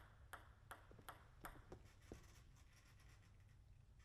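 Table tennis ball bounced repeatedly, faint light ticks about three a second that stop about two seconds in.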